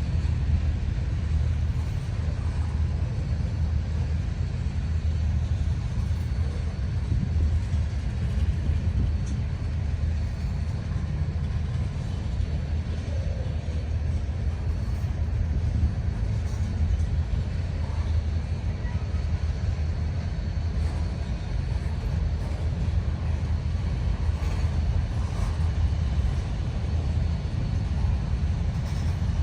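Freight train running by: a steady low rumble.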